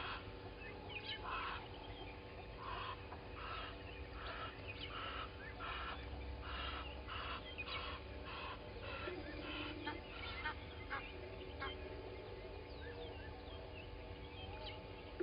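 A bird gives a series of harsh, honking calls that speed up and then stop about ten seconds in. Other birds chirp and whistle around it in the dawn chorus.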